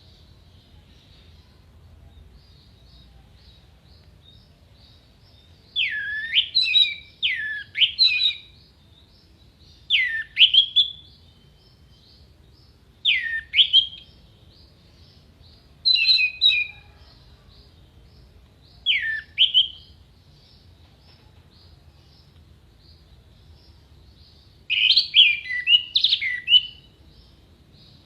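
Orange-headed thrush singing: loud short phrases of sharp, steeply sweeping whistles, coming every few seconds after a quiet start, with a denser run of phrases near the end. A faint, steady high chirping goes on underneath.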